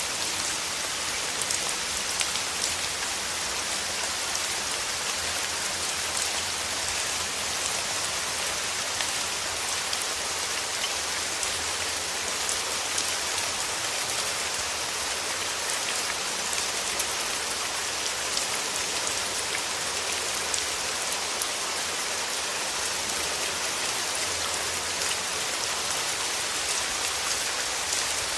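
Steady rain: a dense, even hiss of many small drops, with scattered sharper ticks of single drops.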